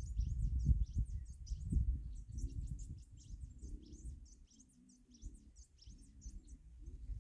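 Small birds chirping in rapid, repeated high chirps, several a second, over a low rumble that is loudest in the first few seconds and fades in the middle.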